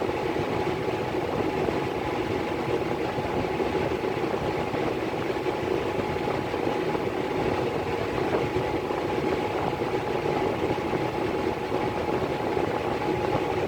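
Miller E3 furnace blower running steadily: an even whir with a constant tone held through it.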